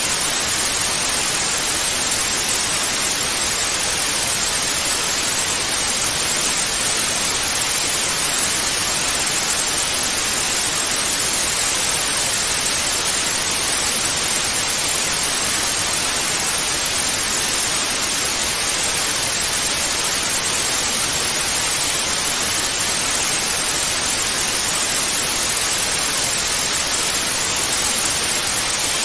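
Analogue TV static: a steady, even hiss of white noise, brightest in the treble, with no change in level.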